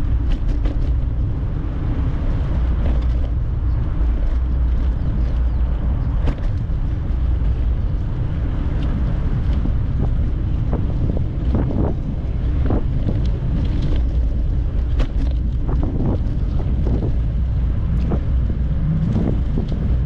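Wind buffeting the microphone while riding, a steady deep rumble, with scattered clicks and knocks that come more often in the second half.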